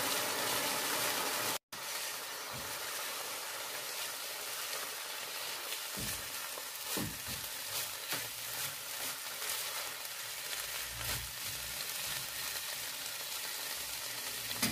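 Minced chicken liver mixture sizzling in a nonstick frying pan, with a momentary break in the sound near the start. From about six seconds in, a wooden spatula stirs and scrapes through it in short strokes.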